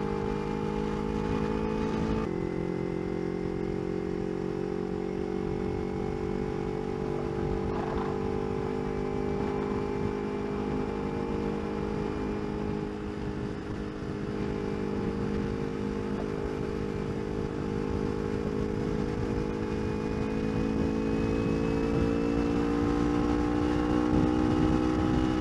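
Kawasaki Ninja 250R's parallel-twin engine running at a steady freeway cruise, its pitch climbing gradually near the end, under constant wind and road rush at the helmet mic.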